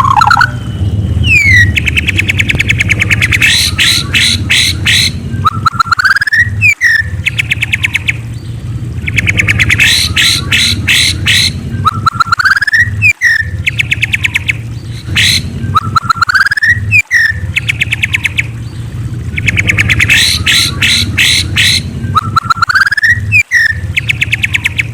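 A murai songbird (a Copsychus magpie-robin or shama) singing loud, repeated phrases: rising whistled notes, then fast rattling trills and runs of sharp high notes, the same pattern coming round several times. A steady low hum runs underneath.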